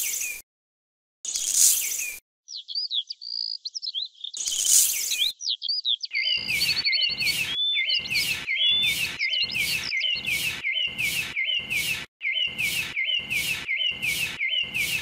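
A miniature trowel drops sand in a few short pours, then scrapes and pats it smooth in quick strokes about twice a second from about six seconds in. Birds chirp throughout.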